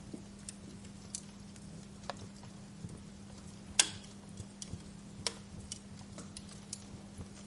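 Wood fire crackling with irregular sharp pops and ticks, one loud pop a little under 4 seconds in and another just past 5 seconds, over a steady low hum.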